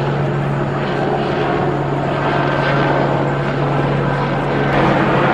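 Police helicopter hovering overhead, its engine and rotor making a loud, steady drone with a constant low hum underneath.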